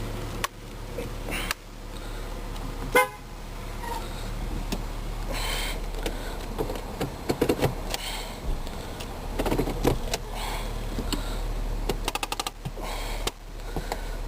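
A 2003 Volkswagen Jetta's engine idling steadily, with scattered clicks and handling noises over it. A single short, loud pitched blip comes about three seconds in, and a quick run of clicks near the end.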